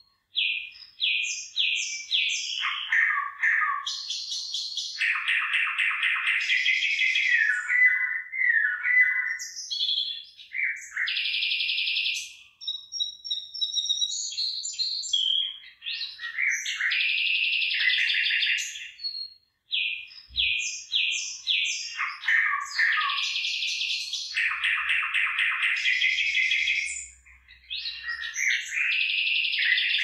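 A songbird singing: phrases of quick, bright chirps and trills, with short pauses between them.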